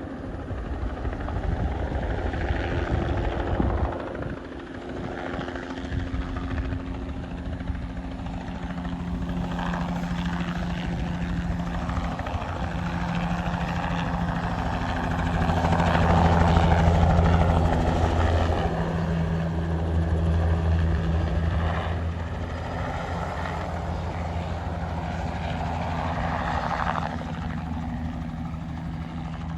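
Crop-spraying helicopter flying past: steady rotor and engine drone that grows louder to a peak about halfway through, then eases off.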